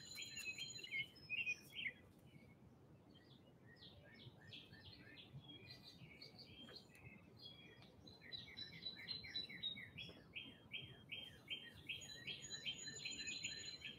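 Faint birdsong: small birds chirping and twittering, sparsely at first, then a quick, even run of chirps, about three or four a second, from about eight seconds in.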